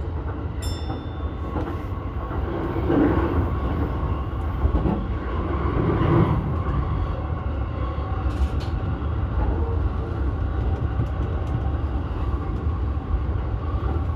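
Keihin-Tohoku Line E233-series electric commuter train running between stations: a steady rumble of wheels on rail with a faint motor hum. A few sharp clicks come about eight seconds in.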